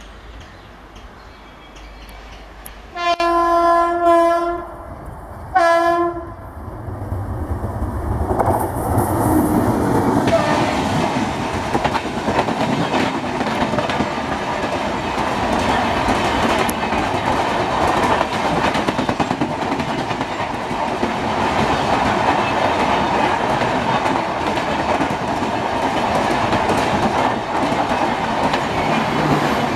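Indian Railways electric locomotive's horn sounding twice, a long blast and then a short one, as an express approaches. Then the train passes close by: a rising rumble that becomes the steady loud noise of the coaches' wheels on the rails.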